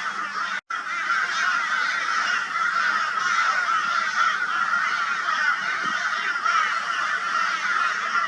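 A flock of crows giving loud, harsh, raucous mobbing calls all at once in a dense unbroken chorus, alarm directed at a barn owl. The sound cuts out for an instant just under a second in.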